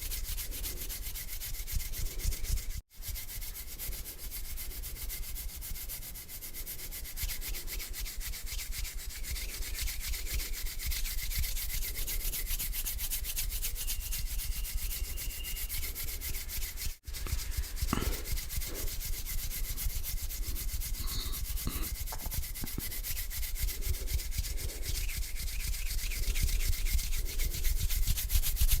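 Hands rubbing together, a continuous dry rustling broken off twice for an instant: once about three seconds in and once a little past the middle.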